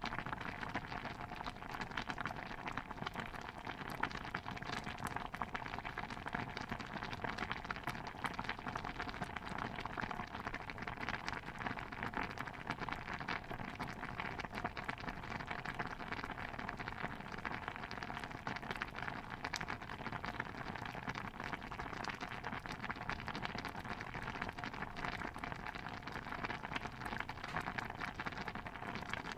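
Pot of stew bubbling steadily, a dense, even patter of small pops and crackles that does not let up.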